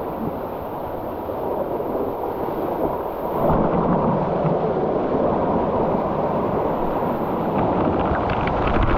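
Rushing canyon water with a steady heavy hiss, getting louder and fuller about three and a half seconds in and again near the end.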